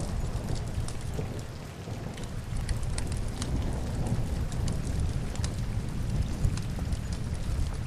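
Steady rain with a low rumble, mixed with the crackle of a wood fire: scattered sharp pops and snaps over the even hiss.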